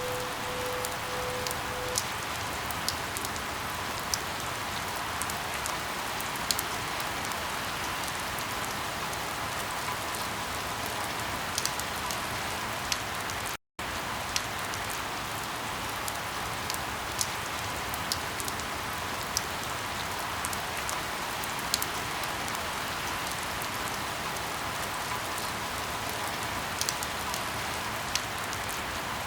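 Steady rain falling, with scattered louder drop ticks. The sound cuts out completely for an instant about halfway through.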